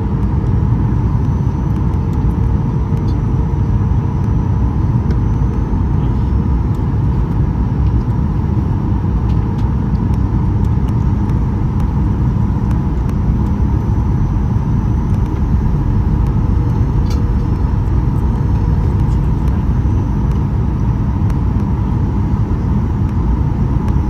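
Steady cabin noise of a Boeing 737-800 in flight, heard from a seat over the wing near its CFM56-7B engine: a loud, even rumble of engine and airflow with a constant hum.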